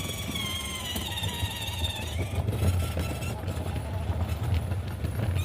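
A child's electric ride-on toy car driving, its motor and plastic wheels making a steady low rumble.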